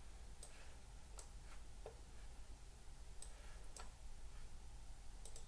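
Faint, irregular clicks of a computer mouse, about eight over a few seconds, over a low steady hum.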